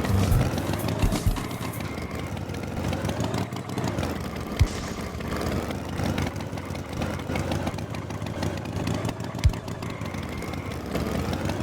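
Engine running steadily, as of a cartoon farm tractor, with two sharp knocks about four and a half and nine and a half seconds in.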